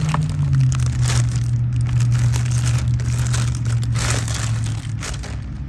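Plastic packaging and bag rustling and crinkling as items are taken out of a box. Under it is a steady low hum that dips slightly in pitch about half a second in and fades near the end.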